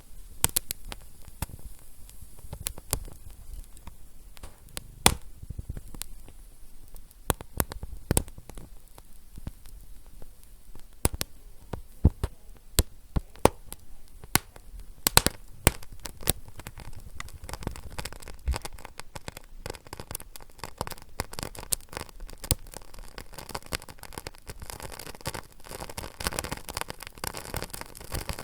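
A fire crackling: irregular sharp pops and snaps over a low hiss. The hissing grows denser and louder toward the end.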